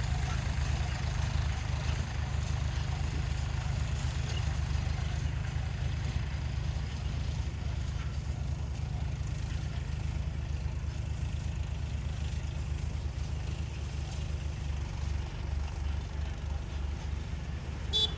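Tractor engine running steadily with a low, even rumble. A short sharp click comes near the end.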